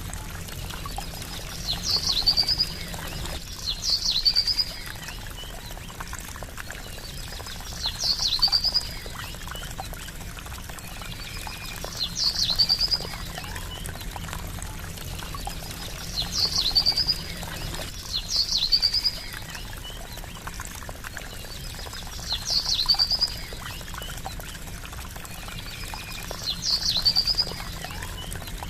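Water trickling steadily, with a bird's short, high call repeating every two to four seconds over it.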